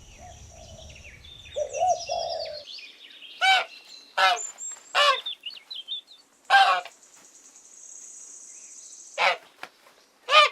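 Birds calling. A pigeon coos once about two seconds in, over the high twittering of small songbirds. From about three and a half seconds on come six or so short, loud calls, a second or more apart.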